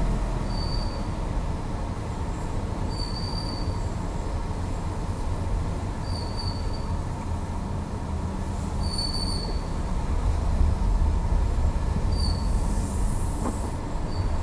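Seat Ateca's steering squeaking as the wheel is turned: short high-pitched squeals about every three seconds, over a steady low rumble.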